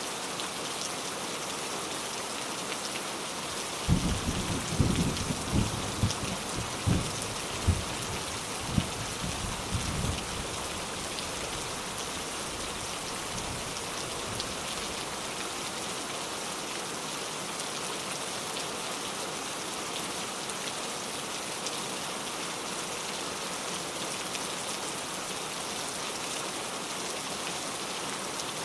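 Steady rain falling. About four seconds in, a clap of thunder breaks into several seconds of crackling low rumble, then fades back to the rain.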